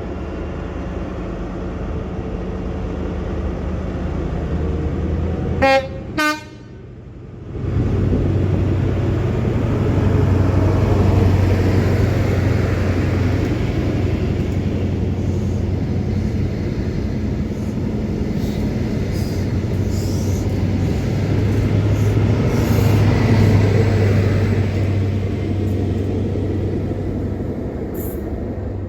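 A train approaching sounds two short horn blasts, then runs past close by with a loud, steady rumble of engine and wheels on the rails, with scattered clicks. The sound cuts off suddenly at the end.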